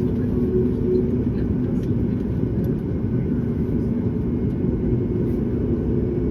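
Steady low rumble of a Boeing 737-9 MAX heard from inside the cabin, engine and airflow noise, with faint steady hums on top.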